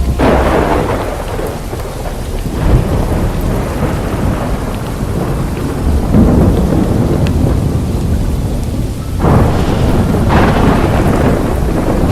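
Heavy rain falling with rolling thunder, the rumbles swelling right at the start and again about nine seconds in.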